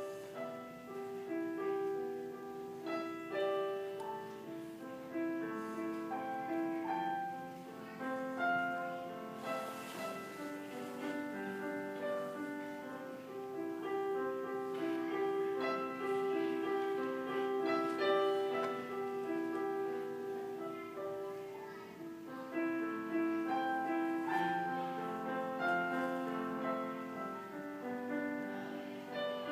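Solo piano playing a light classical piece over an Alberti bass, a steady stream of broken-chord notes in the low-middle range under a melody.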